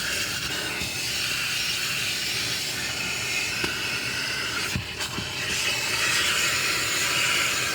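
Car wash vacuum hose sucking air, a steady hissing rush, with a few light knocks from the nozzle near the middle.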